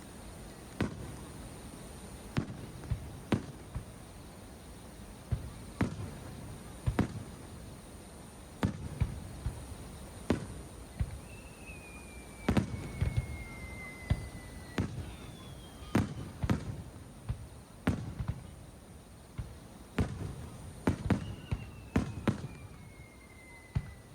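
Aerial fireworks bursting: about twenty sharp bangs at uneven intervals, some close together in quick runs. Twice a high whistle glides slowly downward in pitch for a few seconds, once in the middle and again near the end.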